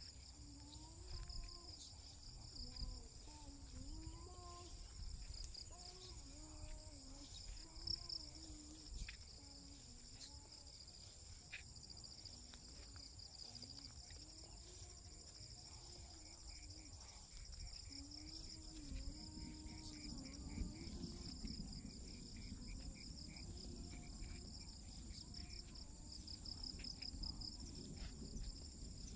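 Countryside insects such as crickets trilling steadily in two high, continuous layers, with a pulsing chirp joining about halfway through. Faint distant voices waver underneath.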